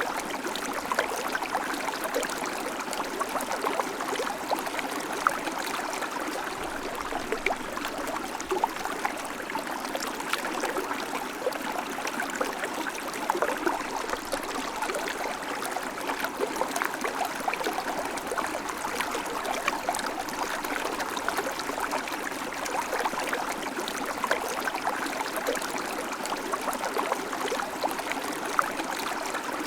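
River water flowing over stones, a steady rush with many small splashes and gurgles.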